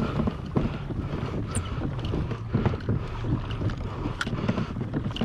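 Water slapping and splashing against a kayak hull under way, with wind buffeting the microphone and a steady low rumble.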